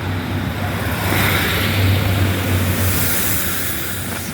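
Diesel train engine running close by: a steady low drone with rushing noise that swells about the middle.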